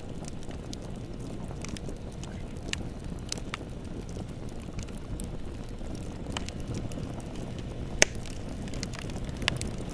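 Bonfire burning with a steady low rush of flames and scattered crackles and pops, the loudest pop about eight seconds in.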